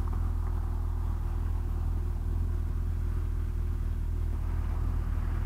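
Motorcycle engine running with a steady low drone, heard from on the bike.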